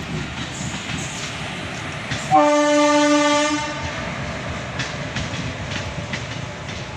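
Passenger train hauled by an electric locomotive passing, with a steady rumble and the clickety-clack of wheels over rail joints. About two and a half seconds in, the locomotive sounds its horn once, a single loud tone held for about a second and a half.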